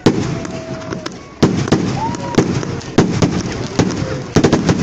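Fireworks going off: a sudden loud start, then a rapid, irregular string of sharp bangs and crackles over a continuous rumble, with a short whistling glide about two seconds in.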